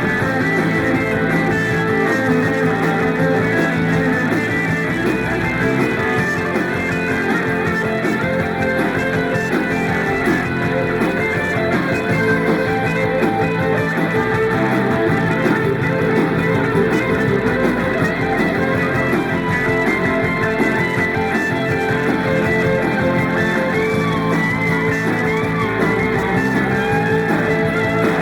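Live rock band playing an instrumental passage with guitar in front, steady and loud.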